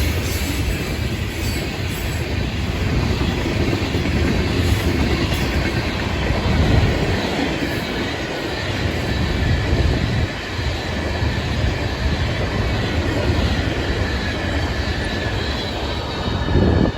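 Freight cars of a Florida East Coast Railway train loaded with rock and fly ash rolling past, a steady rumble and clatter of wheels on the rails. Right at the end the sound drops off sharply.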